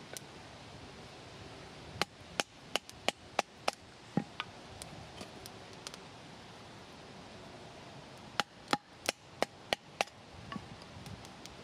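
Wood being chopped with a blade. Sharp strikes come in two quick runs of about six each, a few seconds apart.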